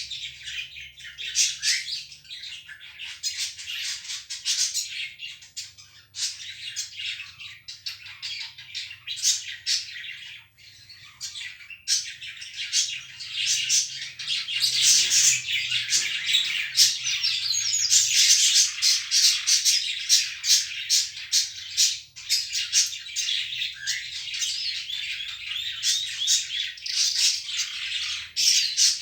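A bird chirping and squawking in a rapid, almost unbroken stream of short, high calls, growing louder and busier about halfway through.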